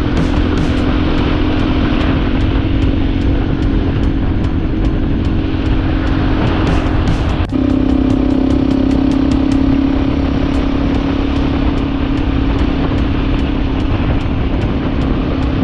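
Suzuki DR-Z single-cylinder dirt bike engine running at a steady road cruise, with wind rushing over the microphone. The sound cuts abruptly about seven and a half seconds in, after which the engine note runs on slightly steadier.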